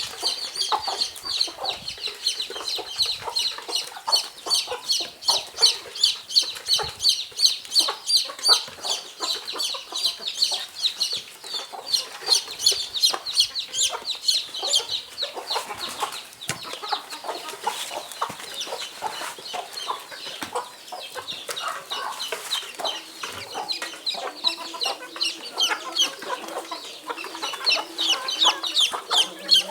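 A flock of kienyeji (indigenous) chickens calling while they feed: a dense, unbroken run of high, rapid chirps with some lower clucking.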